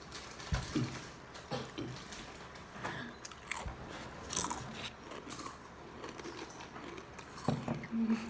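Close-up biting and chewing of snack food, with scattered crisp snaps and clicks, the sharpest about four and a half seconds in.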